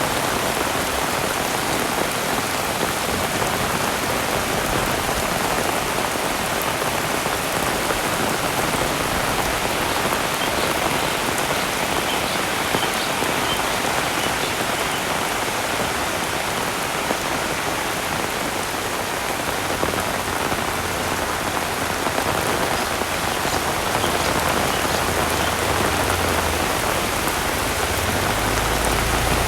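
Heavy rain falling in a steady, dense hiss of drops. A low rumble joins in during the last ten seconds.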